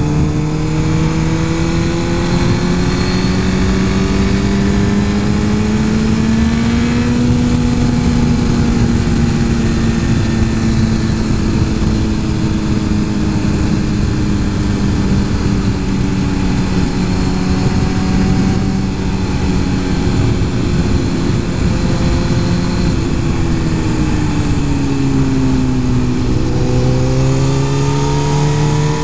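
Suzuki GSX-R 1000 inline-four engine pulling under way, its note slowly rising, then easing off gently, dipping near the end and climbing again, over a steady rush of wind noise.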